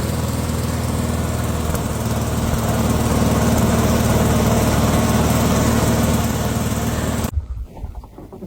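A motor or small engine running steadily with a low hum, stopping abruptly about seven seconds in.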